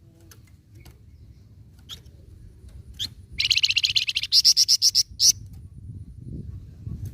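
A flamboyan songbird singing: a few short chirps, then, a little over three seconds in, a loud fast trill that runs straight into a quick series of sharp separate notes, ending with one more note. A steady low background hum runs underneath.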